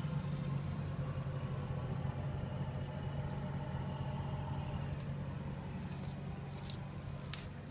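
Diesel truck engine, a Cummins N14 inline-six, idling steadily, with a few faint clicks in the second half.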